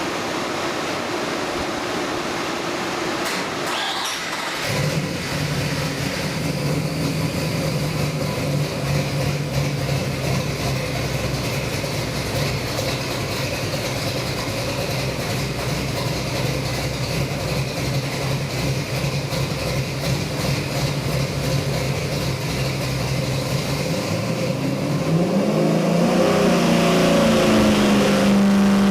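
427 cubic-inch Windsor stroker small-block Ford V8 with MSD Atomic EFI running on an engine dyno, holding a steady note for most of the time, then revving up about 25 seconds in and holding at higher revs.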